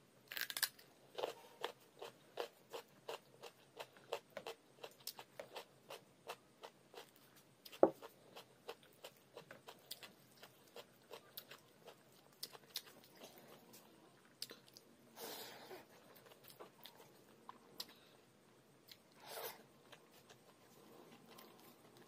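Close-miked eating: a bite into raw carrot, then steady crunching and chewing with short sharp mouth clicks about two to three a second, one louder click about eight seconds in. A few brief soft rustles mixed in.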